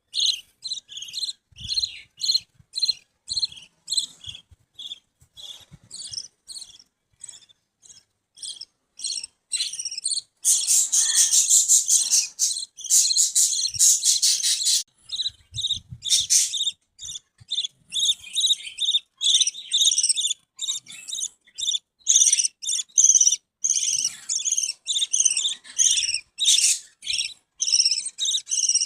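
Budgerigars chirping: a run of short, high chirps repeating about twice a second, breaking into a few seconds of dense, busy chatter about ten seconds in, then back to quick repeated chirps.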